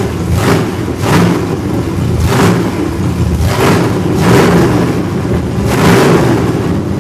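Car engine revved in repeated blips over a steady rumbling idle, about six surges spread through the stretch.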